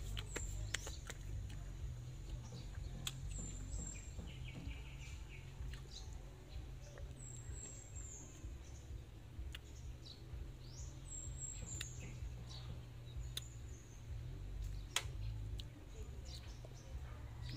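Birds chirping outdoors: short high calls that dip in pitch, repeated a few times, with a brief trill about four seconds in. A steady low rumble of outdoor background noise and occasional sharp clicks run underneath.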